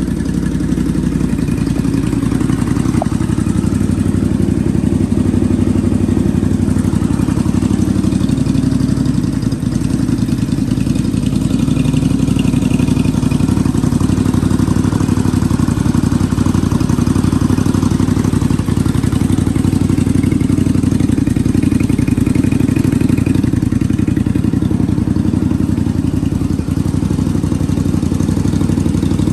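Honda Magna 250 (MC29) V-twin engine idling steadily through an aftermarket Daytona muffler.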